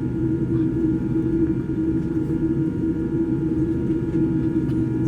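Steady low cabin rumble inside a Boeing 787-9 with a constant hum, the engines and air system running while the airliner is on the ground after landing.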